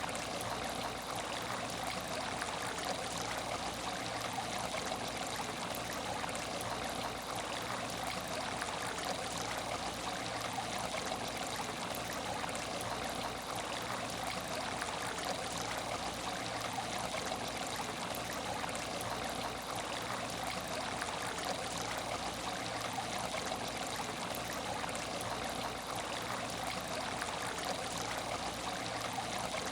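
Water in an aquarium tank trickling and splashing steadily.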